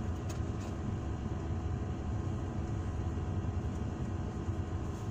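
Car engine idling, a steady low hum heard from inside the cabin, with a couple of faint clicks about half a second in.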